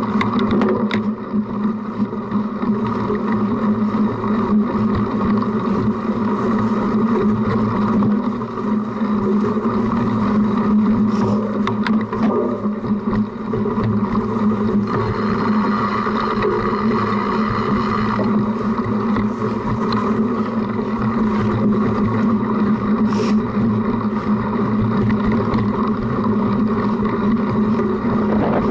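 Steady, loud riding noise of a cyclocross bike on a rough off-road course, picked up by an action camera mounted on the front of the bike: a constant hum with wind and rattling vibration.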